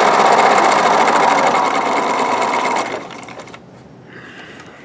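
Husqvarna Viking 950 electric sewing machine running at its top speed, needle stitching rapidly, then slowing and stopping about three seconds in.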